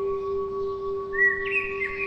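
A bell's ring holding on as two steady tones, with a bird chirping in quick phrases from a little over a second in.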